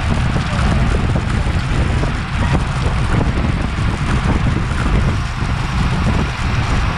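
Wind buffeting the microphone of a Garmin VIRB action camera on a bicycle at racing speed: a loud, steady rumble with no breaks.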